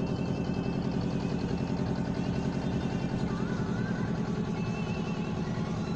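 Engine running steadily, heard from on board, with a throbbing low hum.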